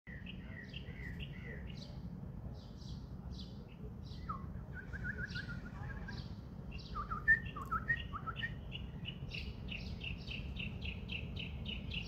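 Songbirds chirping and singing: scattered high chirps and short down-slurred notes, then, from about two-thirds of the way through, a fast run of repeated high notes, three or four a second.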